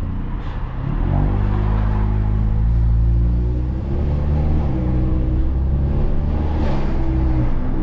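Engine of a tuned 400 BHP Volkswagen Golf R, a turbocharged four-cylinder, pulling under acceleration while driving. Its note climbs from about a second in, drops briefly around four seconds in as it changes gear, then climbs again and holds.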